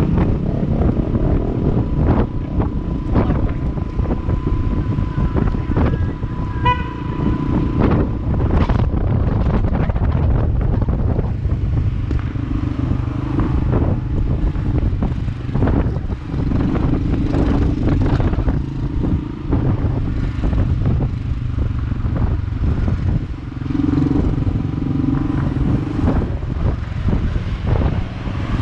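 Honda Cross Cub motorcycle engine running steadily while being ridden, mixed with heavy wind buffeting on the microphone. A brief high beep sounds about seven seconds in.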